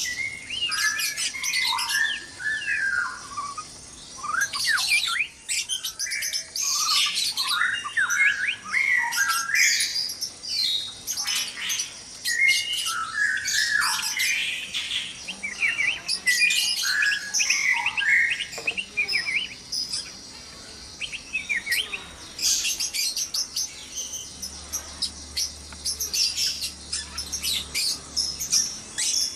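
Several white-rumped shamas calling and singing at once: a dense, busy mix of quick chirps and rising and falling whistled notes, with a short lull past the middle.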